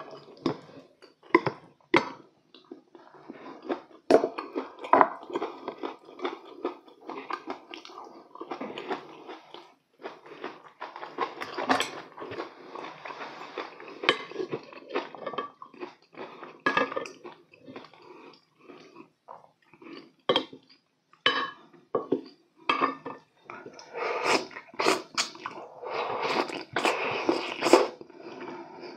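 Close-miked chewing of saucy braised chicken, with metal chopsticks and a spoon clicking and scraping against ceramic serving dishes in many short, irregular taps.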